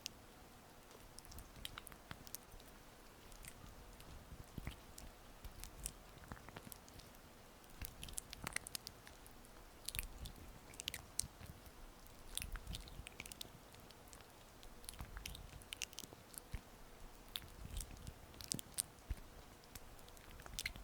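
Gua sha stone gliding over oiled skin, making soft wet, sticky clicks and crackles at irregular intervals.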